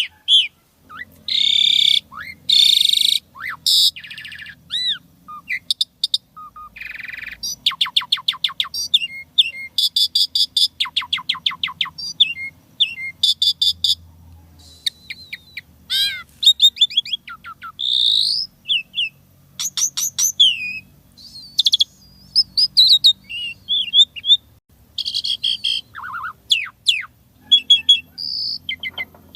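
Asian pied starling (jalak suren) singing a long, varied song of whistles, rising and falling glides, rapid clicking trills and harsh chattering notes, phrase after phrase with short pauses. A faint low hum lies underneath.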